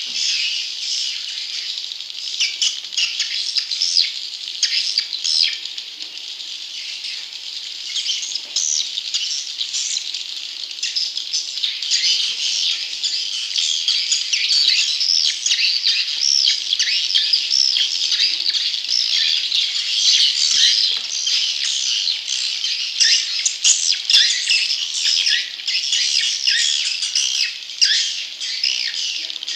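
Swiftlet chicks (edible-nest swiftlets) calling in a dense, continuous chorus of high, rapid chirps and squawks. This is a swiftlet-chick lure call, played to draw wild young swiftlets into a nest house.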